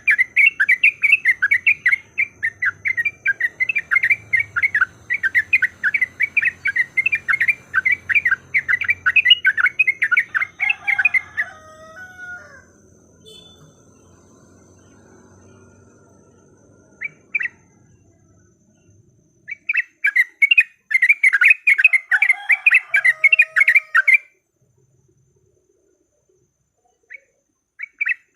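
Sooty-headed bulbul (trucukan) chattering in rapid runs of sharp 'cuk cuk' notes, several a second: the fighting-style call used to provoke other bulbuls into calling. The first run lasts about eleven seconds and ends on a lower falling note; after a pause and a single note, a second run of about four seconds ends the same way, then silence.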